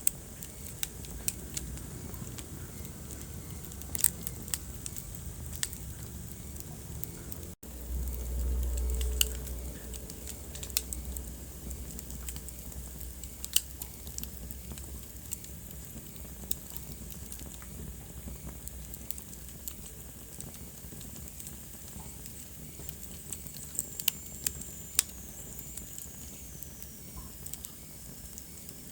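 Wood fire crackling in a fireplace: scattered sharp pops and snaps over a low rumble of burning logs. The sound cuts out for an instant about seven and a half seconds in, and the low rumble then swells for a couple of seconds.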